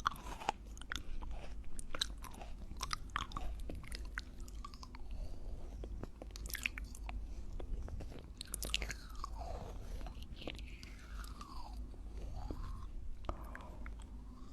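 Close-up mouth sounds of chewing, heard right at the ear: a steady stream of small wet clicks and pops, with a few sliding squeaky mouth sounds past the middle.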